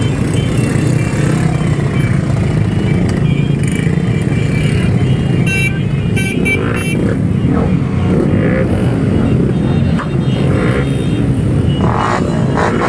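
Motorcycle engines running steadily as a group of bikes rides together.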